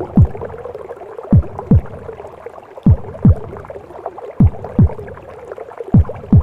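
Womb sound of a mother's heartbeat: slow lub-dub double thumps, low and falling in pitch, about every second and a half over a steady muffled whooshing.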